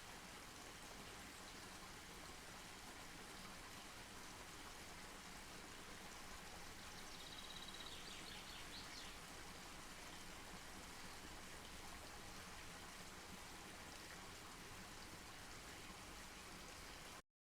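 Wood campfire burning softly, a faint steady hiss with small scattered crackles. A brief high chirping trill about seven seconds in, and the sound cuts off abruptly near the end.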